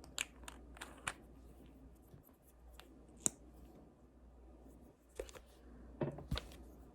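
Scattered light clicks and short scrapes of small objects being handled, the sharpest a single click about three seconds in and a small cluster near the end.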